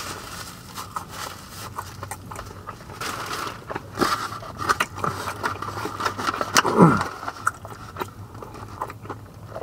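Close-up mouth sounds of a person chewing a mouthful of fried chicken sandwich: many small wet smacks and clicks. About seven seconds in comes a short hummed sound that falls in pitch.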